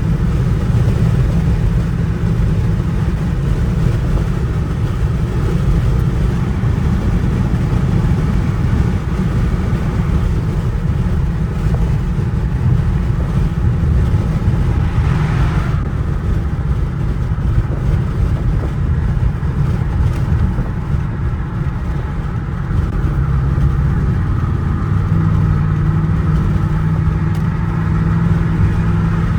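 Dodge Charger R/T's 5.7-litre Hemi V8 engine and exhaust running loudly while driving, with a brief rushing noise about halfway through and a steadier held note near the end.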